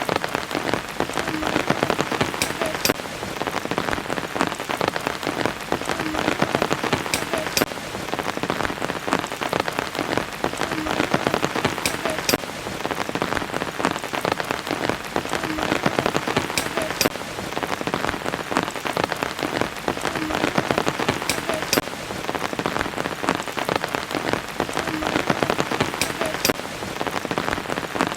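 Steady rain falling on a surface: a dense, even hiss with many individual drops ticking sharply.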